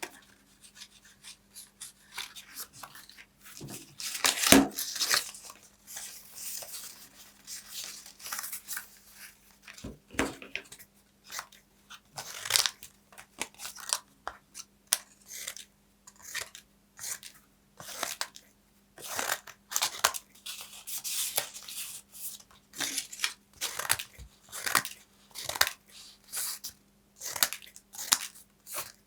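Paper being torn and crinkled in many short, irregular strokes, the loudest about four and a half seconds in.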